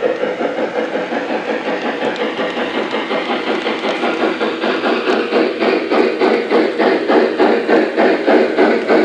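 Lionel Legacy B6sb 0-6-0 steam locomotive model's onboard RailSounds playing steady steam chuffing, about four to five chuffs a second over a constant hiss. The chuffs grow louder and more distinct about halfway through.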